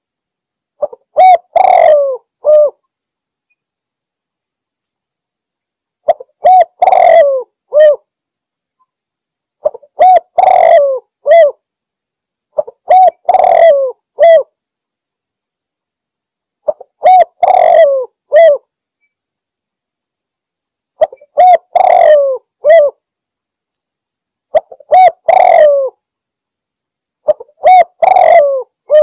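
Spotted dove (tekukur) cooing its phrase over and over, eight times, about every three to four seconds, with dead quiet between phrases. It is a gacor territorial call used as a lure to draw in rival doves.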